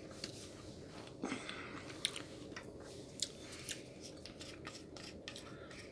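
Close-miked chewing and mouth sounds of a person eating dim sum: soft wet smacks and small clicks scattered through, a little busier about a second in.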